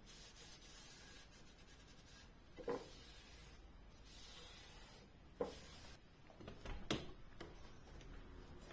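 Household cleaning sounds: soft rubbing with three light knocks, the last and loudest about seven seconds in.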